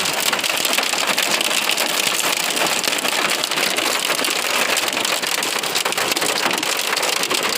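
Heavy rain pouring down steadily: a dense hiss peppered with many tiny sharp ticks of drops striking hard surfaces.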